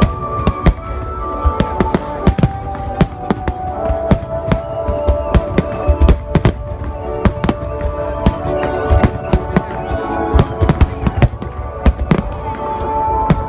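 A dense barrage of fireworks going off, dozens of sharp bangs in quick, irregular succession, over music with long held notes.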